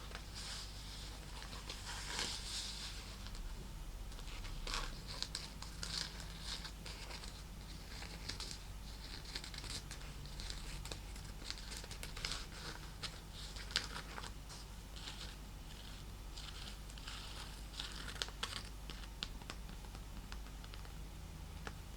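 Fingernails scratching and tapping over a snake-leather clutch purse: a dense run of short, dry, crinkly strokes, with the loudest ones about two, six and fourteen seconds in.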